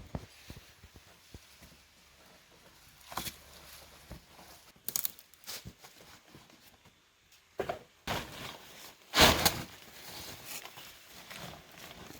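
Irregular rustling and crunching with a few sharp clicks, like dry material being handled or stepped on; the loudest burst comes about nine seconds in.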